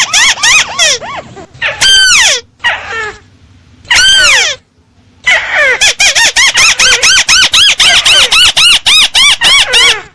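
Recorded lure call of a tikusan crake: a fast run of squealing, arched notes, about five or six a second, with two brief pauses in the first half before the run carries on.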